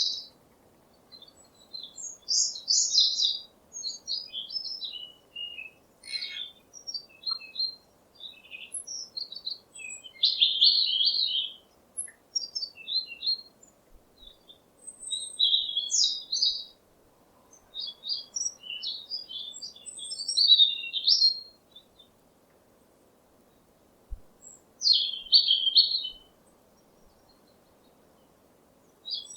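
A small songbird chirping and singing in short, high-pitched phrases of quick notes and trills, with pauses of a second or more between phrases, over a faint steady background hiss.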